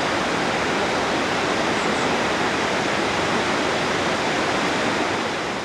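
Mountain waterfall: a steady, even rush of falling water, beginning to fade out near the end.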